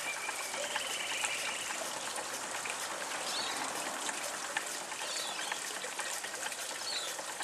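Steady trickle and splash of water running from the outlet of a replica Hayward Tyler hot air pumping engine's pump back into its barrel; the engine itself runs very quietly beneath it.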